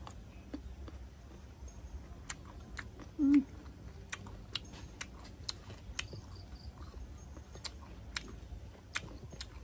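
Close-up chewing of crisp raw mango and cucumber slices: irregular sharp crunchy clicks from the mouth, with a short hum about three seconds in.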